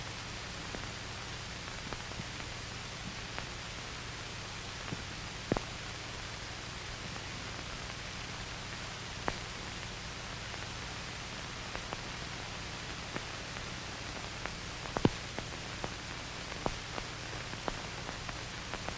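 Steady hiss with a low hum, broken by scattered sharp clicks and pops, the strongest about five and fifteen seconds in: the background noise of an old film soundtrack between lines of narration.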